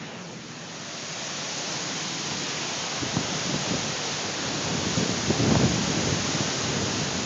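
Strong dust-storm wind rushing as a steady hiss that builds over the first couple of seconds. From about three seconds in, gusts buffet the microphone with low rumbles, strongest around five to six seconds.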